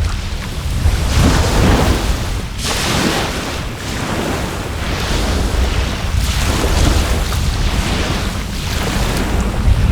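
Sea waves washing onto the shore in swells every couple of seconds, with wind rumbling on the microphone.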